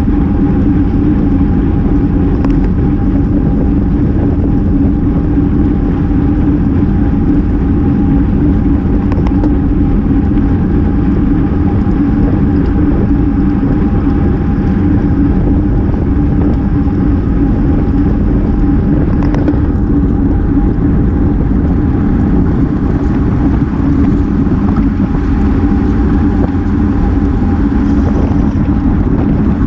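Steady wind and road noise on a GoPro carried on a racing road bike at speed, a loud continuous rumble with a steady hum running through it.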